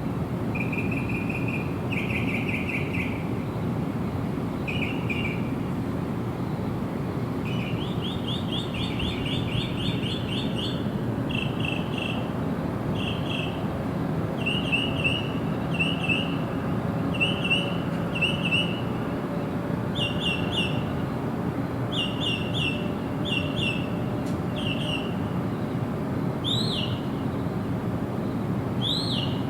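Bird calling in short groups of repeated high chirps, with a quick run of notes about eight seconds in and a few rising notes near the end, over a steady low background rumble.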